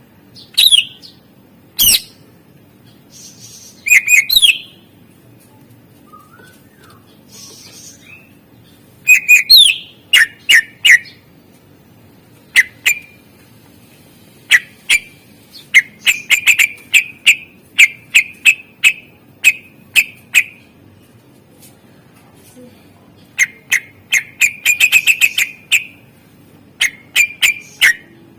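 Cucak ijo (greater green leafbird) singing its varied mimicking song: sharp, steeply falling whistled notes in irregular bursts, with quick runs of repeated notes near the middle and again near the end.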